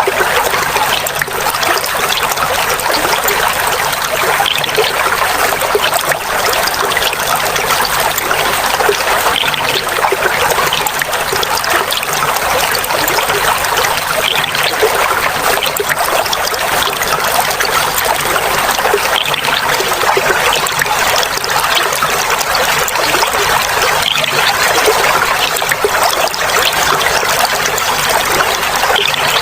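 Clear water trickling and babbling steadily, a continuous even splashing with no breaks.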